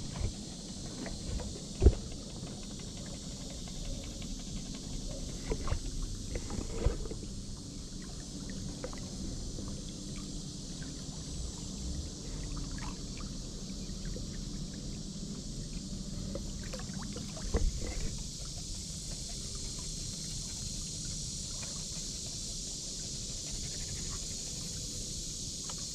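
Small fishing boat's electric trolling motor running with a steady low hum, under a steady high hiss. A few knocks against the boat break in, the loudest about two seconds in.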